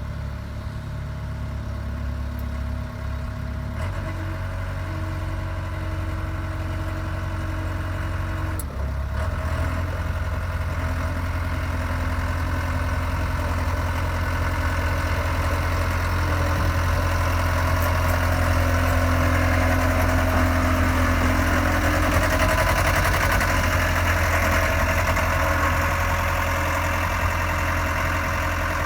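Diesel engine of a 1995 Sakai SV200T vibratory soil-compaction roller running steadily. Its note shifts about four seconds in and again near nine seconds in, then it grows gradually louder.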